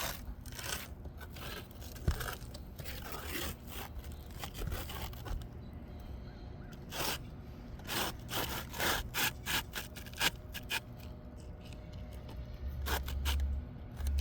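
Asphalt roof shingle being slid back into place under the course above, its gritty surface scraping and rubbing against the neighbouring shingles in a run of short, irregular strokes.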